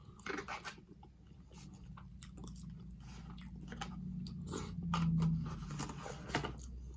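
Close-up chewing and crunching of food, with small clicks of the mouth and fork, over a low hum that swells around the middle.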